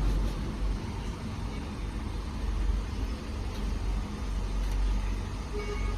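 Automatic pet washing machine running its shower rinse step: a steady rush of spraying water over a low hum.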